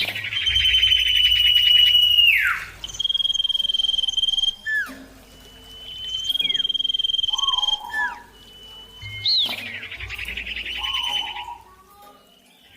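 Common iora (cipoh) singing: four long, steady, high whistles of one to two seconds each, some ending in a quick downward slur, with short rising and falling notes between them.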